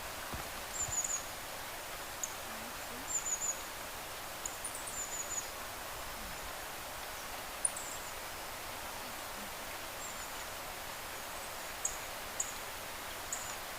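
Small birds giving thin, very high-pitched calls, short falling notes every second or two, over a steady hiss of outdoor background noise. Near the end the calls become a few sharper single chips.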